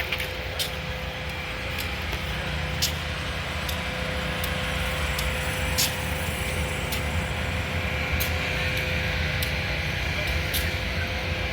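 Diesel locomotive engine idling: a steady low rumble with a constant hum. Sharp clicks recur every second or two over it.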